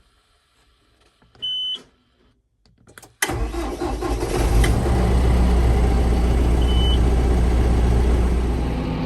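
A short high beep, then a few seconds later a John Deere tractor's diesel engine starts abruptly and settles into a steady run, heard from inside the cab. Another short beep sounds past the middle.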